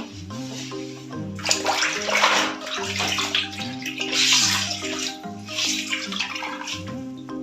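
Water splashing and running in three loud bursts, as when parts are being washed, over background marimba-like music.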